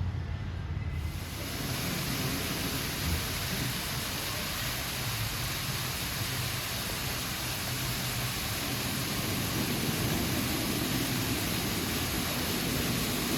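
Steady rush of splashing, falling water, an even hiss that starts suddenly about a second in and holds steady.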